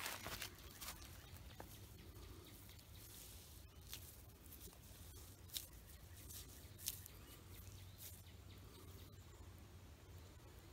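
Near silence: faint background with a few brief, scattered clicks.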